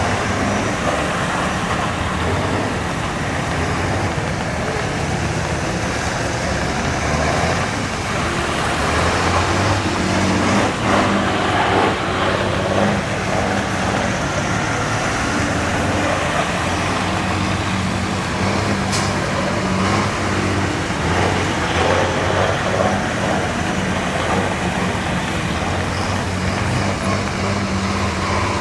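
Truck engine running at a steady pitch, a continuous low drone under broad noise.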